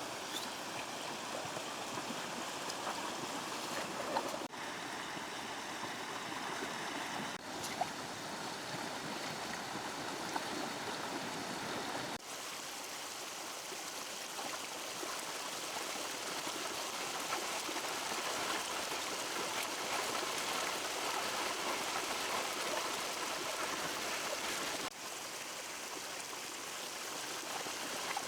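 River water flowing steadily over stones, a continuous rushing and burbling that shifts slightly in character at a few sudden cuts, with a few faint knocks in the first half.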